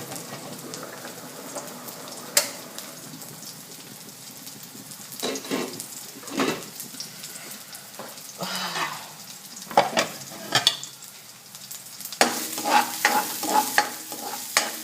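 Garlic sizzling in hot oil in a wok, with a spatula scraping and clicking against the pan as it is stirred. The stirring gets busier in the second half.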